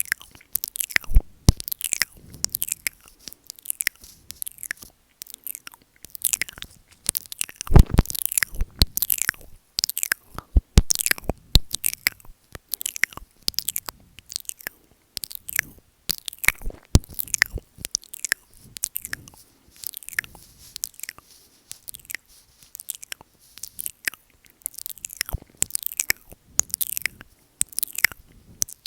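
Close-miked ASMR mouth sounds: wet licking, smacking and nibbling on the microphone, a dense irregular run of moist clicks and pops, several a second.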